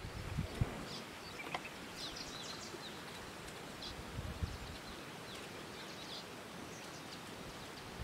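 Quiet natural ambience: a steady soft hiss with faint, short bird chirps scattered through it.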